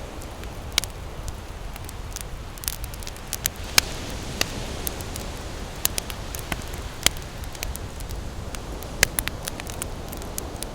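Wood campfire crackling, with irregular sharp pops a few times a second, the loudest about four seconds in and again near nine seconds. Behind it runs the steady low wash of ocean surf.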